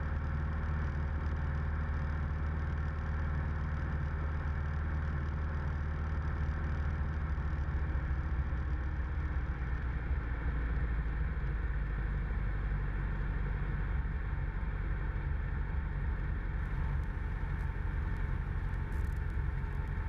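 Steady drone of a Cessna 172M's four-cylinder Lycoming engine and propeller in cruise descent, heard from inside the cabin.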